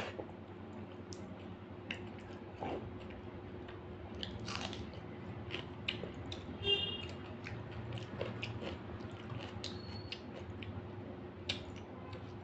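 Close-up eating sounds of a person chewing a mouthful of rice and dal: soft wet chewing with many small mouth clicks and smacks, and fingers squishing the food on the plate. One brief louder squeak comes about midway.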